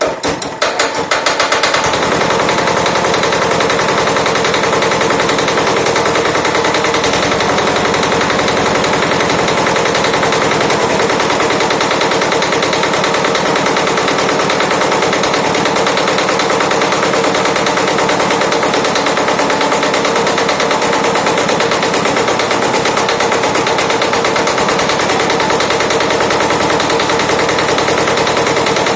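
Yanmar Prince YT500 tiller's single-cylinder diesel engine picking up speed in the first couple of seconds, its separate firing knocks closing into a fast, even clatter that then runs steadily.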